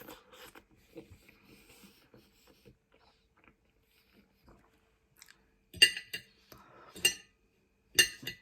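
Cutlery knocking against a plate while eating: faint small clicks at first, then three sharp ringing clinks about a second apart in the second half.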